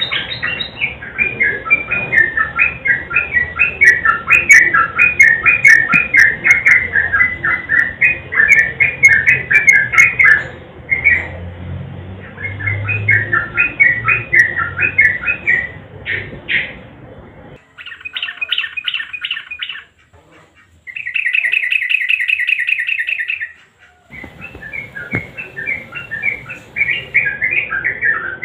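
Yellow-vented bulbul (trucukan) singing: long runs of rapid, bubbly chattering notes, broken near the middle by a short steady buzzing trill.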